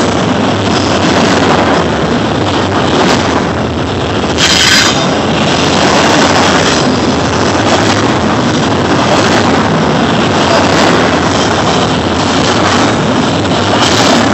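Double-stack intermodal freight cars of a BNSF train rolling past close by: loud, steady noise of steel wheels on rail, with a brief high screech about four and a half seconds in.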